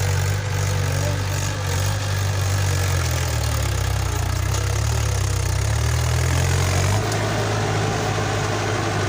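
Tractor engine running steadily; its note shifts about seven seconds in.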